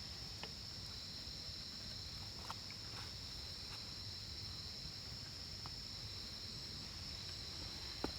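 A steady high-pitched insect chorus, crickets or cicadas in the forest, with a few faint scattered ticks.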